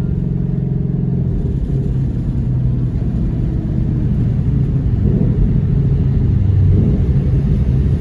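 Supercharged 5.2-litre V8 of a 2020 Shelby GT500 running with an even, steady drone. About a second in, this gives way to a rougher rumble that slowly grows louder.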